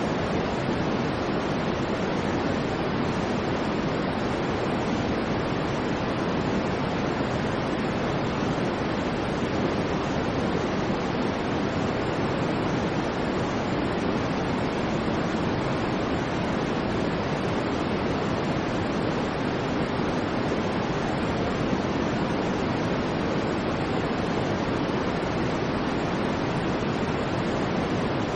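Steady synthetic white-noise track: an even, unbroken hiss that never changes, fuller in the low and middle range than in the treble.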